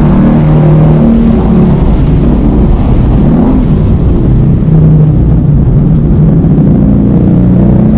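Ford Mustang engine under full-throttle acceleration heard from inside the cabin, pulling up through the gears as the car goes from a crawl to about 100 mph, its pitch climbing and stepping down at the upshifts, over wind and tyre noise.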